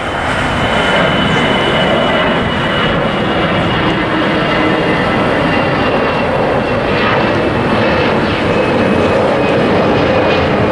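Jet airliner's engines at takeoff power, a loud, steady roar with a thin high whine running through it.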